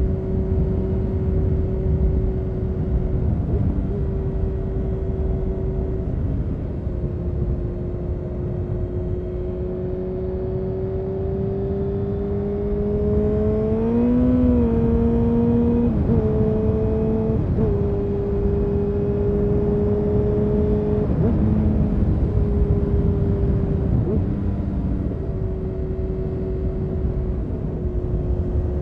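A 2000 Honda CBR929RR Fireblade's inline-four engine, running through an Erion full racing exhaust while riding. The engine note climbs slowly to a peak about halfway through, then drops and shifts in pitch a few times as the throttle and gears change. A steady low rush of wind runs underneath.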